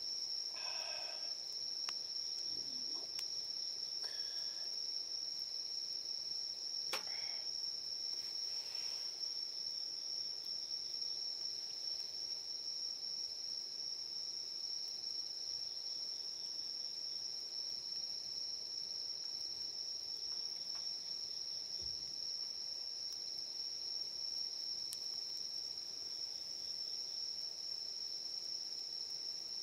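Night insects singing in a continuous high-pitched trill, steady throughout, with a few faint clicks.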